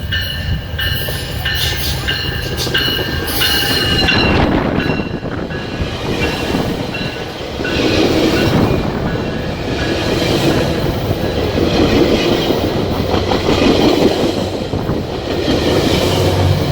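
GO commuter train passing at speed. A bell strikes repeatedly for the first four seconds, then the loud rush and rumble of the train going by take over.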